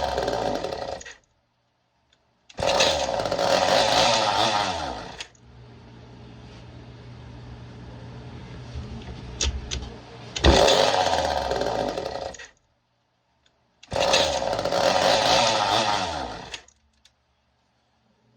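Early-1970s Craftsman 2.3 chainsaw, a Poulan-built two-stroke with a broken piston ring, running in short revving bursts of a couple of seconds that wind down and cut out. It runs quietly for a few seconds in the middle, then fires up loud twice more and dies each time.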